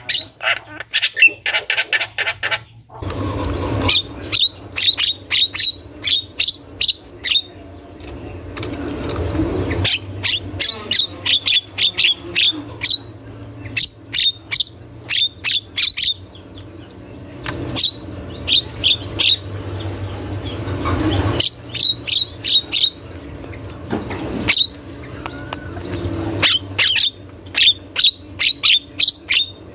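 Javan myna (jalak kebo) calling almost without pause: rapid runs of sharp, high, chattering notes, each run lasting a few seconds, over a low background rumble.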